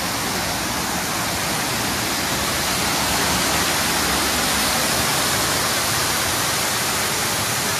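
Water pouring over a small waterfall: a steady, loud rush.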